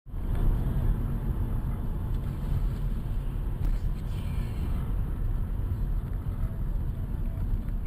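Road and engine noise of a moving car: a steady low rumble with no impact.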